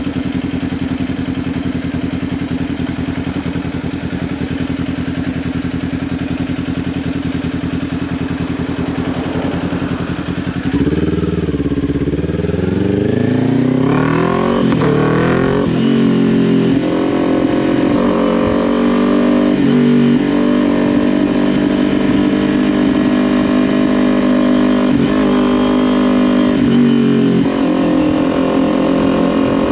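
Kawasaki Ninja 400's parallel-twin engine through a Leo Vince LV10 slip-on exhaust, holding a steady low note at first. About eleven seconds in it gets louder and revs up through several quick rising pulls as it shifts up, then settles to a steady cruising note.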